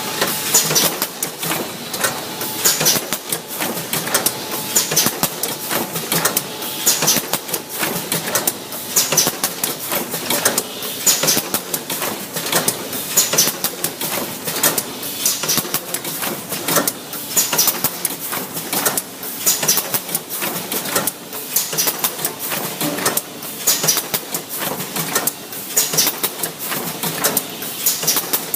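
Freezer-bag packaging machine running: a rapid clatter of small clicks, with a louder stroke that repeats about every two seconds as it cycles.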